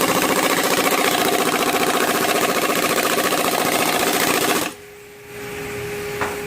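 Impact wrench hammering rapidly on a 19 mm nut of a Mazda 13B rotary engine for about five seconds, then stopping suddenly; the nut does not break loose.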